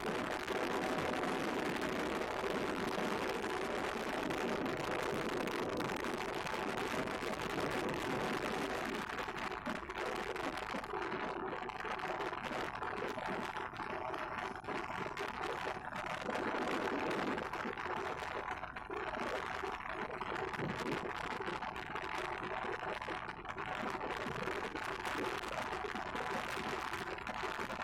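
Yamaha MT-15 motorcycle engine running steadily under way, with a fast, even mechanical ticking and road and wind noise.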